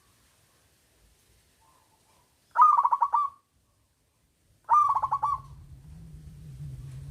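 Zebra dove (perkutut) cooing: two loud calls about two seconds apart, each a quick run of staccato notes, after a faint softer coo. A low steady hum comes in with the second call.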